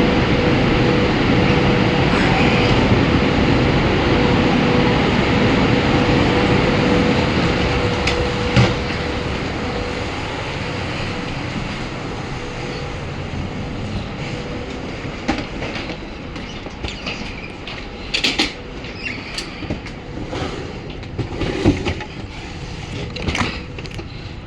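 High-speed train running with a loud, steady rumble and a held tone. A sharp knock comes about a third of the way in, then the rumble gradually dies down. Scattered clanks and squeaks follow near the end.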